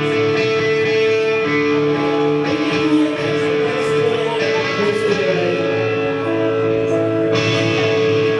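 Guitar music: held chords and notes ringing steadily, with no clear drumbeat.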